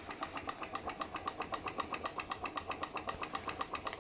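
PM Research glass Stirling engine running a Baker fan under load, a steady rhythmic ticking at about eight beats a second.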